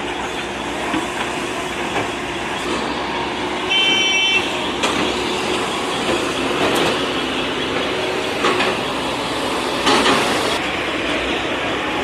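Steady outdoor noise of running vehicle engines and general bustle, with a short high-pitched horn toot about four seconds in and a few scattered knocks.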